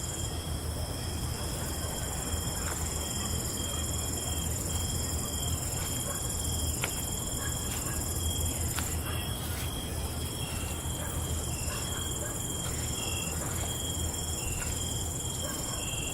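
Night insects chirring, several at once at different high pitches: steady trills with some breaking into short pulsed chirps, over a low steady rumble.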